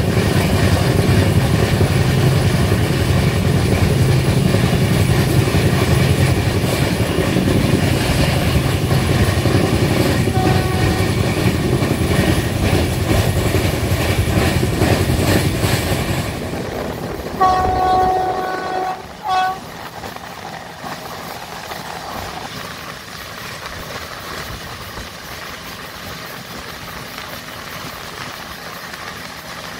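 Passenger train running at speed: a steady rumble with the rhythmic clatter of wheels on the rails. About two-thirds of the way through, a train horn sounds one long blast and then a short one. After the horn the running noise is quieter and steadier.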